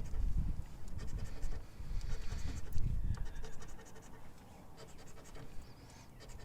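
A scratch-off lottery ticket being scratched, short rough scraping strokes that are stronger for the first few seconds and then fainter.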